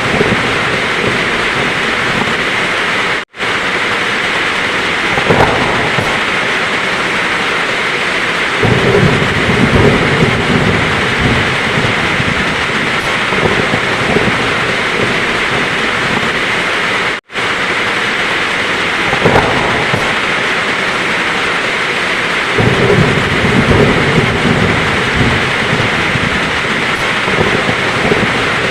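Heavy rain pouring with a steady hiss, while thunder rolls in low and long twice. Twice the sound cuts out to silence for a split second.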